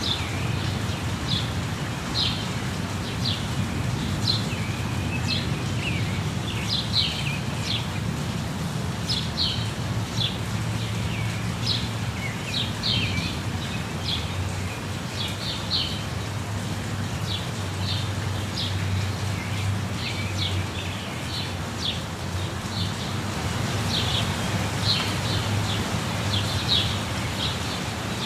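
Steady rush of a waterfall with a deep rumble underneath, and small birds chirping over it in short high calls, a few every second.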